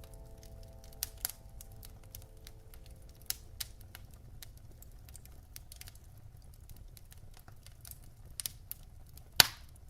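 Wood fire in a fireplace crackling, with scattered sharp pops; the loudest pop comes near the end. The last piano notes die away in the first couple of seconds.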